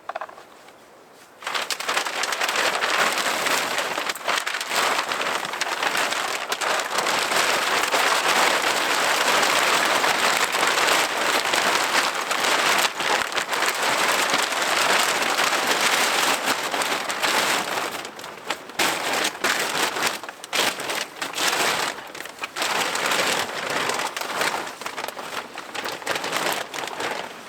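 Wind-driven blizzard snow pelting the microphone and the ground around it in a dense patter. It sets in suddenly about a second and a half in and turns gusty and broken in the last third.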